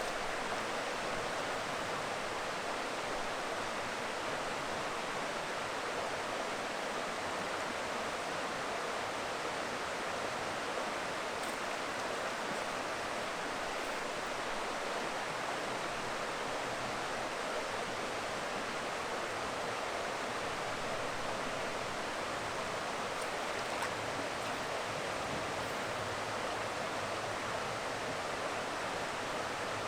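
River water flowing, a steady, even rush with no change throughout.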